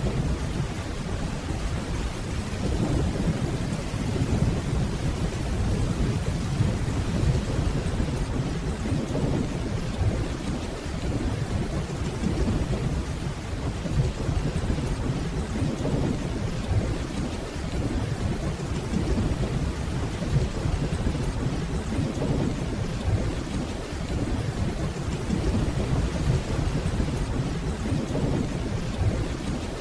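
Steady rainfall with a continuous low rumble of distant thunder beneath it.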